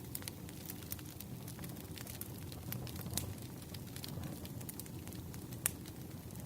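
Wood campfire crackling: a steady low rumble of burning logs with scattered small pops and snaps, and one sharper pop near the end.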